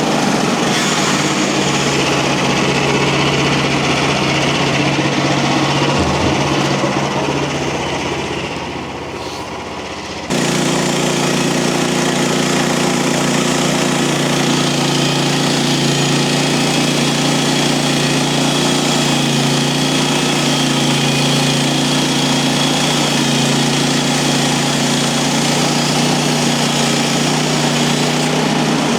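Small gasoline engine of a Mechmaxx bandsaw sawmill running steadily at speed, dipping in loudness shortly before the sound changes abruptly about ten seconds in.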